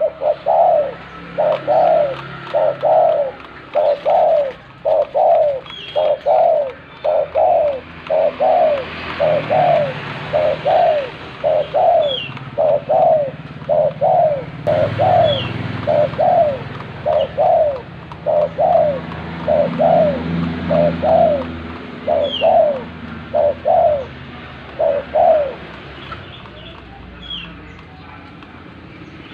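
Spotted dove (tekukur) cooing: a long run of short, rising-then-falling coo notes, about one and a half a second, that stops a few seconds before the end. A faint high chirp from another bird sounds every few seconds.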